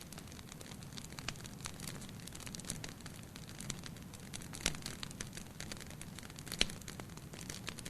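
Wood fire burning in a fireplace: irregular crackles and sharp pops over a low steady rumble of the flames, with two louder pops about two-thirds of the way through and near the end.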